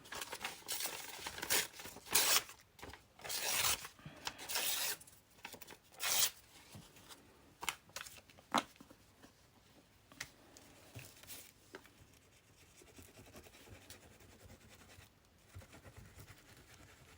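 Paper being torn by hand, several tearing strokes in the first six seconds, followed by faint light rustles and taps of paper being handled.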